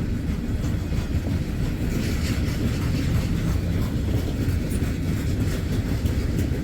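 Freight train cars rolling past close by: a steady low rumble of wheels on rail, with faint clicks as the wheels cross rail joints.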